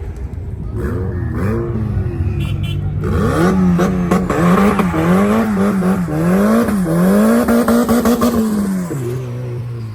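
Car engine revved hard several times in quick succession, the pitch rising and falling with each blip, then held high for about a second and a half before dropping back to idle near the end.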